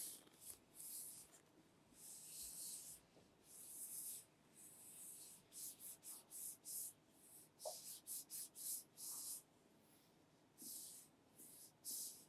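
Faint rubbing and sliding of handled packaging, a string of short, irregular hissing strokes with pauses between them.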